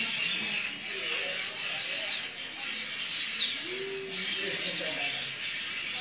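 Bird chirping: short, high-pitched calls that fall in pitch, the loudest about two, three and four and a half seconds in, with smaller chirps between, over faint voices.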